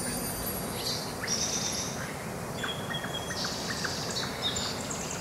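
Birds chirping and calling in short high trills over a steady outdoor hiss.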